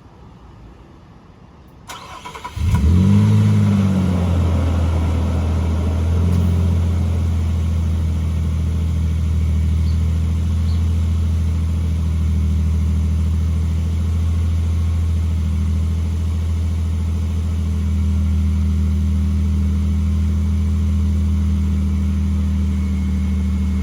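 2019 Nissan Frontier's VQ40 4.0-litre V6 cold-started through an aFe Hi-Tuck aftermarket exhaust. About two seconds in, the starter cranks briefly and the engine catches and flares up. It then settles into a steady idle.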